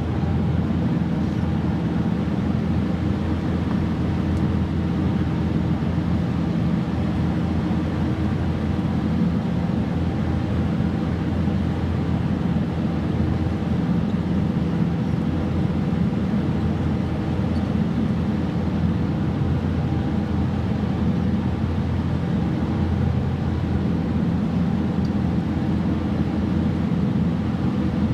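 Boat engine running steadily: a constant low drone with no change in speed.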